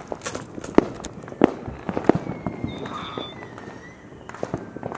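Fireworks going off: a run of sharp bangs and crackles, the two loudest about a second and a second and a half in, with a faint thin high whistle around the middle.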